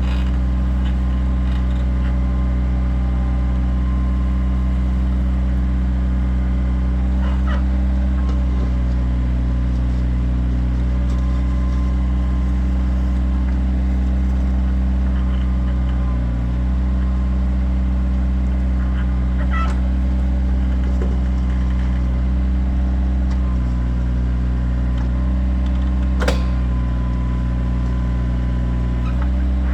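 Kioti tractor's diesel engine running steadily under light load, with a few sharp knocks during the work, one louder near the end.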